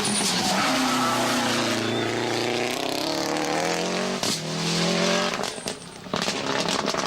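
Subaru Impreza GC8 rally car's flat-four boxer engine driven hard: the revs drop, then climb twice with a gear change about four seconds in. Near the end the driver lifts off with a few sharp crackles, then gets back on the throttle.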